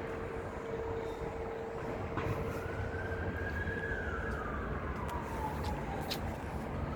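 An emergency vehicle siren wailing, its pitch rising slowly and then falling over several seconds before climbing again near the end, over a steady low rumble of city traffic.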